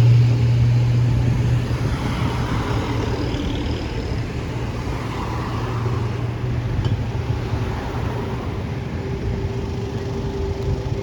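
Street traffic: a motor vehicle's engine running with a steady low hum, loudest in the first couple of seconds, over a continuous wash of road noise.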